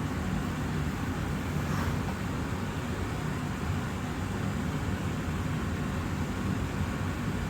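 Austin Air HealthMate air purifier's fan running steadily, a rush of air over a low hum.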